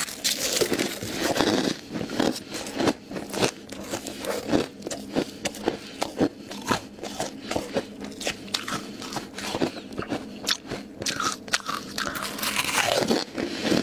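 Ice being bitten and chewed close to the microphone: a fast, irregular run of sharp crunches, denser near the start and again near the end.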